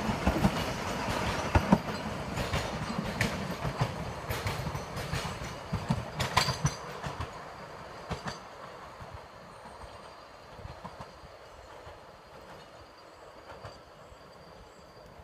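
Narrow-gauge train's wheels clicking and knocking over the rail joints as it rolls past. The sound fades steadily away over the second half.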